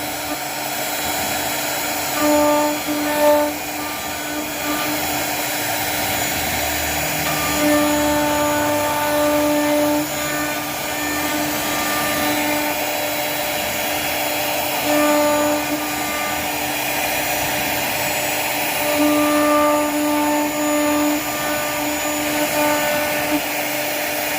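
CNC router running, a steady machine noise with a pitched spindle hum that comes and goes in stretches of a second or more.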